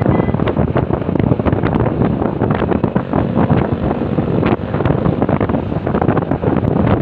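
Wind buffeting the microphone of a moving motorcycle: a loud, steady rush of air, full of crackles, that buries the road and engine sounds.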